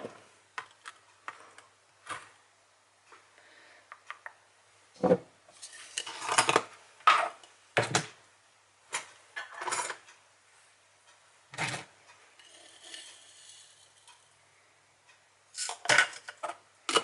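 Scattered clinks, knocks and clatters of a mug, spoon and other kitchen things being handled while a coffee is made.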